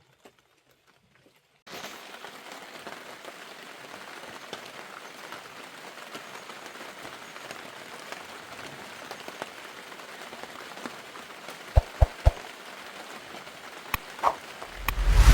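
Steady rain falling on a surface, starting suddenly about two seconds in. Three sharp knocks come close together near the middle, and a heavy low thump near the end.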